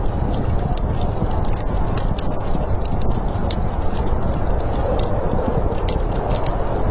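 Wood fire crackling, with sharp irregular pops and snaps over a steady low rushing noise.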